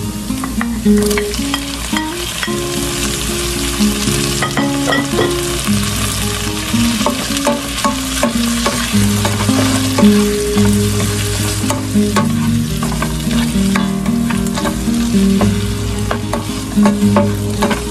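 Chopped meat, garlic and tomato sizzling as they sauté in a nonstick pot. A nylon spatula stirs and scrapes against the pot with frequent short scrapes and clicks.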